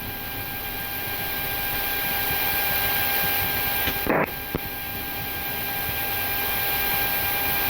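Steady flight-deck background noise in a Boeing 737-800 waiting on the ground with its engines running: an even hiss with a steady whine, slowly growing louder. There is a brief click about four seconds in.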